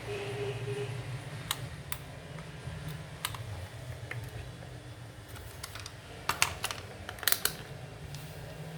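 Scattered sharp clicks and snaps of small tools and plastic fan parts being handled during the repair, with a few louder clicks about six and a half and seven and a half seconds in, over a steady low hum.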